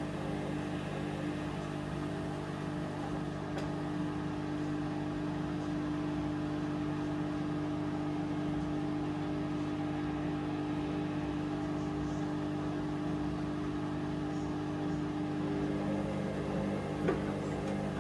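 Hoover Vision Dynamic washing machine running, a steady motor hum with a single click about a second before the end.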